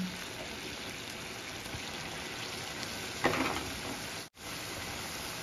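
Moong dal and tempering sizzling in a hot wok, a steady frying hiss. A brief louder noise comes about three seconds in, and the sizzle carries on after a cut near the end.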